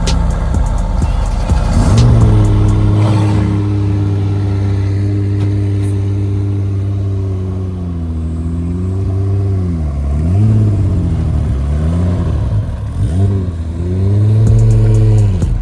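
Car engine running at a steady idle, then its pitch dipping and rising several times in the second half as the throttle is worked.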